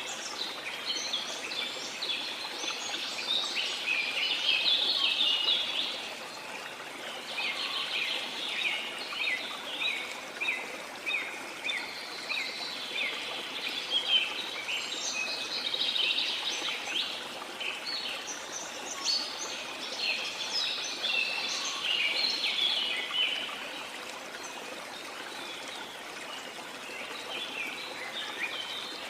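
Dense chorus of tropical forest birds giving rapid chirps and trills over a steady rush of falling water. The birdsong thins out for a few seconds near the end, leaving mostly the water, then starts up again.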